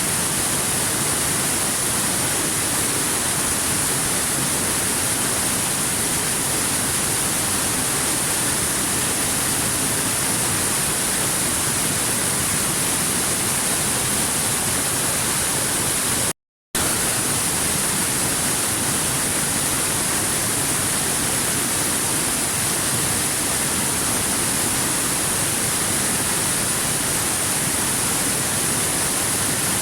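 Waterfall: a steady, even rush of falling water. It cuts out for a moment about halfway through.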